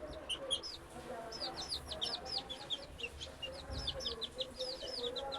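Young chickens, about three weeks old, peeping over and over: many short, high chirps, several a second, overlapping.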